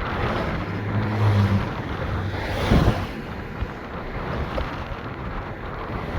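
Car driving on a highway: steady road and wind noise, with a short louder whoosh a little under halfway through.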